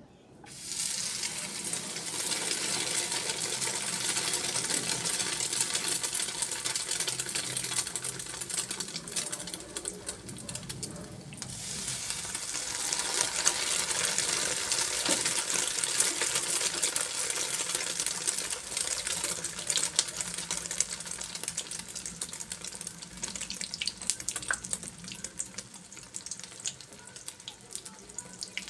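Egg-battered stuffed chiles frying in hot oil: a crackling sizzle that starts abruptly, dips briefly about eleven seconds in, then returns and slowly dies down.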